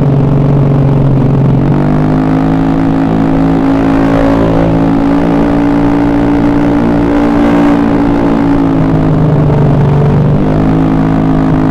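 Honda Beat carbureted scooter engine running, its pitch stepping up about two seconds in, dropping near the end and rising again just before it ends.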